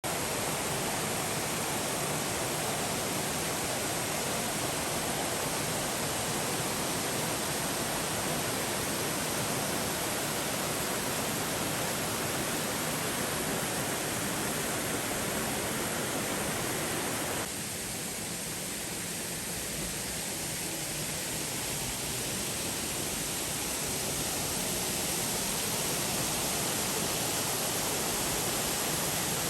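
Steady rushing roar of a waterfall. About two-thirds of the way through it changes abruptly to a softer rush that slowly grows louder again.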